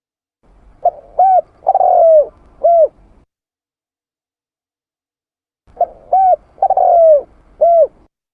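Spotted dove (tekukur) cooing: two phrases of four coos each, about three seconds apart, the third coo in each phrase drawn out and falling in pitch.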